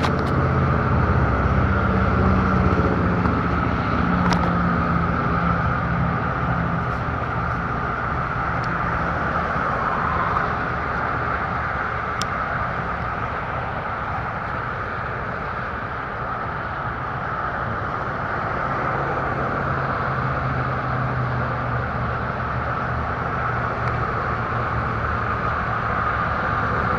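Apollo RFZ dirt bike engine running steadily while being ridden, with a rushing noise over it, easing off slightly midway and picking up again.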